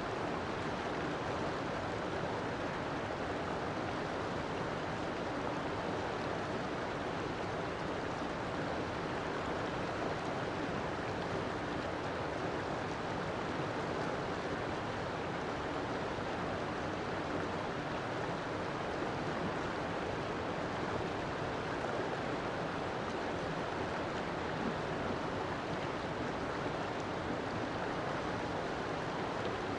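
River water flowing: a steady, even rushing with no breaks or changes.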